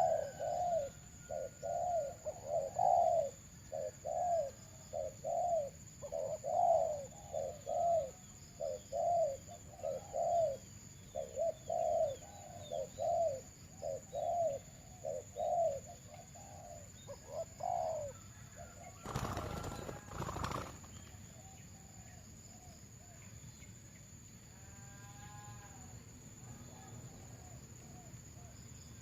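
A dove cooing in a long run of short, arched coos, about one and a half a second, that stops about two-thirds of the way through. A brief burst of rustling noise follows, then a few fainter bird calls.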